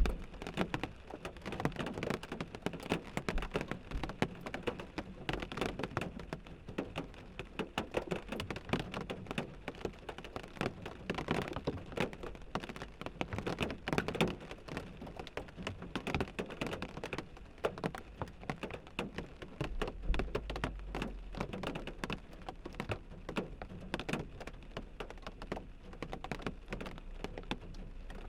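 Rain falling on a car windshield: a dense, uneven patter of drops striking the glass. A low rumble joins about two-thirds of the way through.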